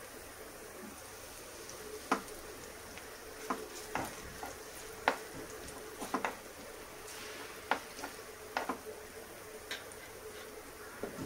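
Semolina-and-vegetable patties shallow-frying in oil in a nonstick pan: a steady sizzle with sharp pops and crackles every second or so. A fresh patty is set into the hot oil by hand about six seconds in.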